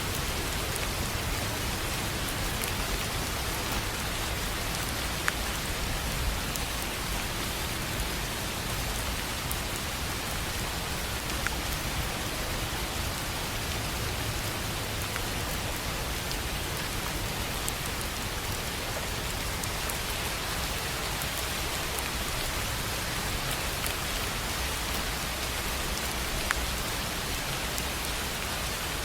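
Steady rain falling on a tin roof, an even hiss with a few sharper single drop strikes standing out now and then.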